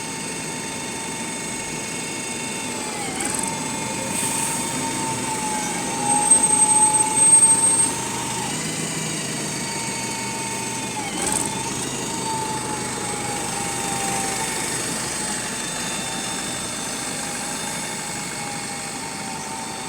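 Faint steady whine from a single-deck bus's Voith automatic gearbox and Cummins ISBe 4.5-litre four-cylinder driveline, heard on board while it runs at low speed in first gear, over the bus's running noise. The whine dips sharply in pitch twice and otherwise drifts gently, falling as the bus speeds up and rising as it slows. A louder burst of noise comes about six to eight seconds in.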